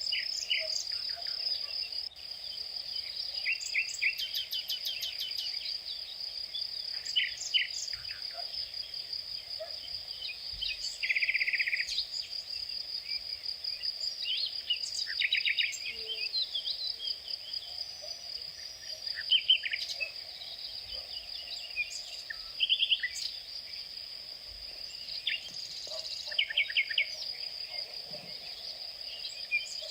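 Outdoor ambience of a steady, high-pitched insect trill, like crickets or cicadas, with many short bird chirps and calls scattered over it, including one brief buzzy trill partway through.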